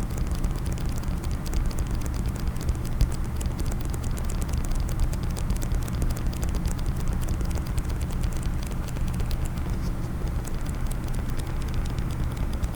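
Fast, continuous fingertip and fingernail tapping on a case, many small clicks a second, with a steady low rumble underneath.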